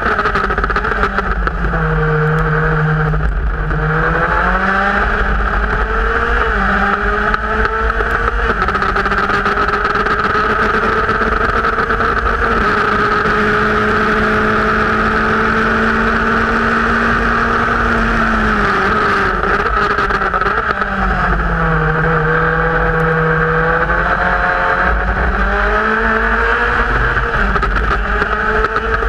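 Formula Speed 2.0 race car's engine at racing speed with steady wind and road rush. The revs drop twice under braking, about two seconds in and again about twenty seconds in, climb back up through the gears, and hold level for several seconds in the middle.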